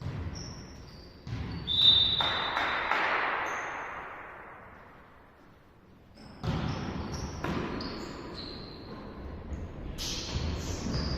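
Volleyball being played on an indoor court: the ball is struck and thuds onto the floor, the loudest hit about two seconds in, echoing in the hall, with sneakers squeaking on the court between the hits.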